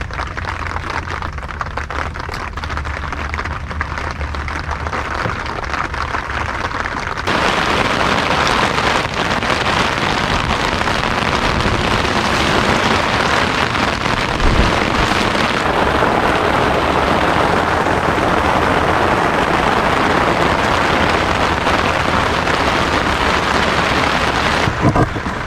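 Rain falling steadily, a dense even hiss that turns suddenly louder and heavier about seven seconds in.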